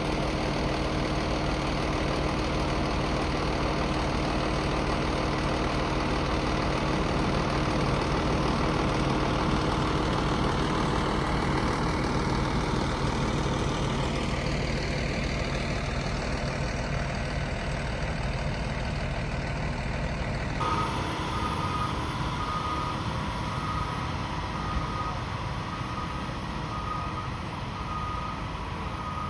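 A heavy truck's engine running steadily; about two-thirds of the way in, its reversing alarm starts beeping at a regular pace as it backs up.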